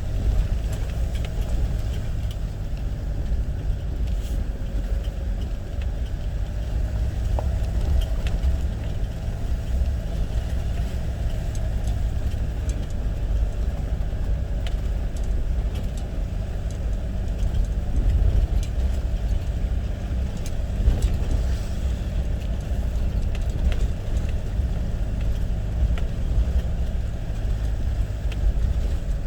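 Car on the move: a steady low rumble of engine and road noise, with faint small rattles and clicks.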